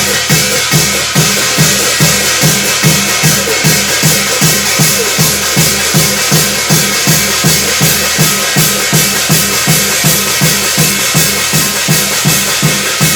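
Korean shamanic ritual (gut) percussion: a drum struck in a steady, even beat of about three strokes a second, with a continuous metallic shimmer of cymbals over it.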